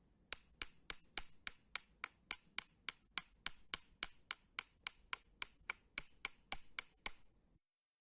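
Light, sharp metallic taps at an even pace of about four a second on a removed Mitsubishi FTO electric fuel pump, tapped with a hammer while it is wired to a 12-volt battery. There is no motor hum, because the pump is dead. A faint high hiss runs under the taps and stops suddenly near the end.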